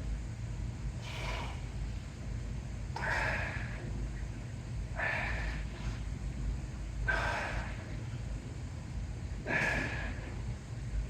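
A man breathing hard through a set of cable chest flies: five short, forceful breaths about two seconds apart, one with each rep, over a steady low rumble.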